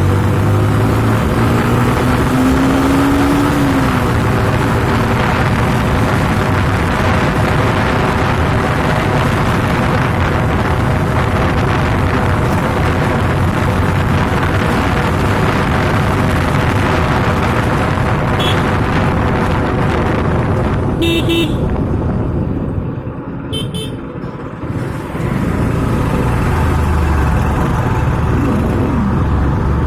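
Motorcycle riding on a road in traffic: a steady engine and wind-noise rumble, with short horn toots about two-thirds of the way through. The rumble eases briefly after the toots, then picks up again.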